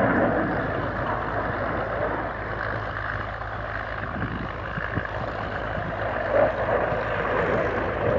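Dassault Rafale's twin M88 turbofan jet engines heard at a distance as a steady rumbling roar, easing a little midway and building again toward the end.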